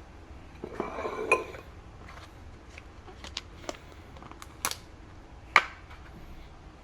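Kitchen dishes and utensils being handled: a short scraping rustle with a clink about a second in, then several separate sharp clinks and knocks, the loudest near the end.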